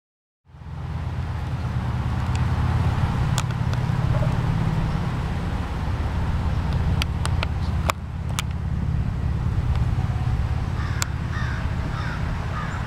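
1959 Austin-Healey 100-6's 2.6-litre straight-six engine idling steadily with a deep exhaust note, with a few sharp clicks over it.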